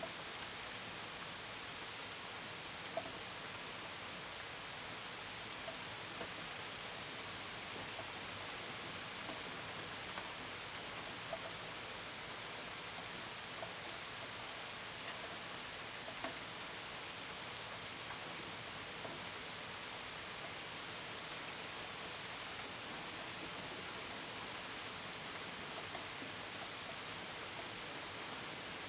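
Steady gentle rain falling, with scattered sharper drops pattering. Crickets chirp in a high, broken band throughout.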